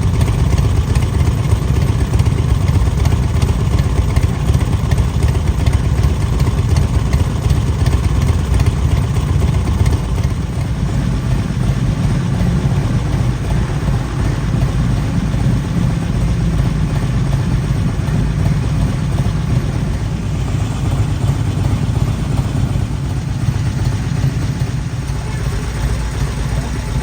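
Motorcycle engine idling steadily, slightly louder in the first several seconds.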